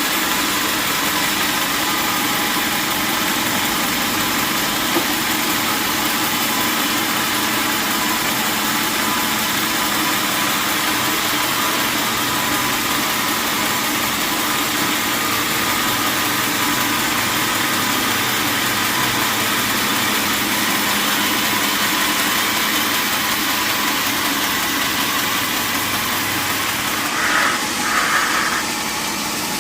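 Sawmill machinery running with a steady mechanical drone, with two brief louder bursts near the end.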